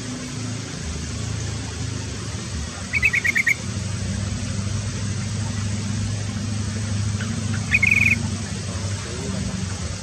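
Small bird chirping in two quick runs of about five sharp, identical notes, one about three seconds in and one near eight seconds. A steady low hum runs underneath.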